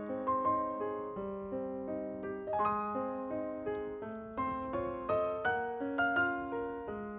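Background music: solo piano playing a gentle melody, with notes struck in a steady flowing rhythm.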